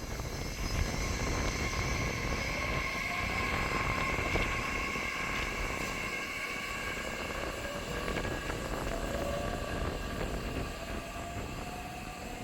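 Nishitetsu electric commuter train running, with a low rail and wheel rumble under steady high whines from its electrical equipment. A motor whine rises in pitch during the first few seconds and again near the end, as the train gathers speed.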